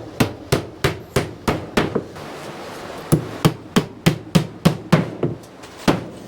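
Hammer blows struck in quick runs, about three a second, with a short break about two seconds in and a last single blow near the end.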